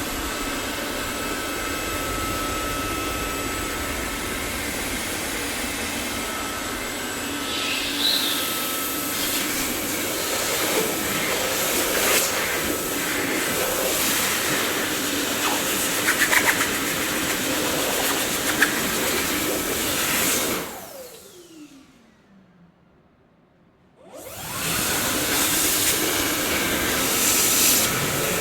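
Dyson vacuum cleaner running with a steady rushing noise and a few scattered clicks. About twenty seconds in it is switched off: its motor whine falls in pitch as it spins down to near silence. A few seconds later it starts again and runs quickly back up to full speed.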